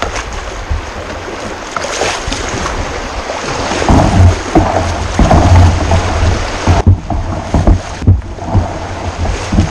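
A kayak working through a shallow, rocky shoal: rushing river water and wind buffeting the microphone, with heavy rumbling and a run of knocks and splashes starting about four seconds in.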